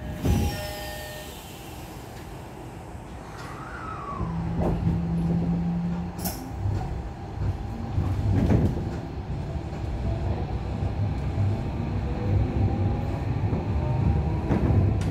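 Tokyo Metro 16000-series electric train heard from inside the car: running noise that grows louder after a few seconds, with a few knocks. Over the last seconds a faint traction-motor whine rises slowly in pitch as the train gathers speed.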